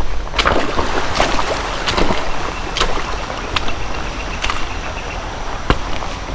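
Footsteps wading through shallow creek water: a splash and slosh about once a second, over a steady low rumble.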